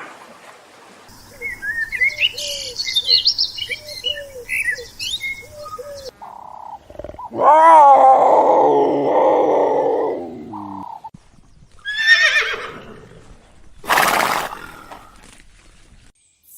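Birds chirping with a row of short repeated calls, then a long loud horse whinny that wavers at the start and falls in pitch, followed by two short animal calls near the end.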